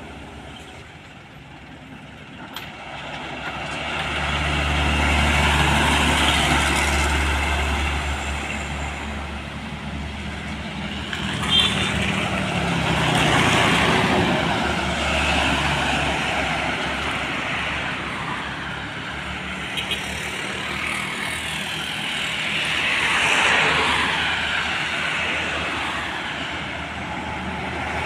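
Heavy road vehicles, trucks and buses, passing one after another with engine and tyre noise. The sound swells and fades about three times as each one goes by, with a short sharp sound near the middle.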